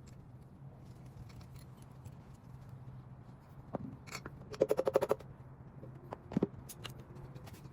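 Metal tools and engine parts being handled: a quick, even run of about ten sharp metallic clicks halfway through, then a single knock.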